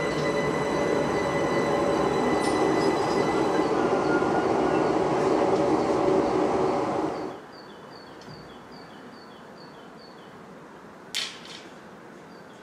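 A London Overground Class 378 electric multiple unit moving past the platform: a loud, even rumble of wheels and running gear with a steady whine. It cuts off suddenly about seven seconds in, leaving a quiet background with faint, evenly repeating high chirps and a single sharp click.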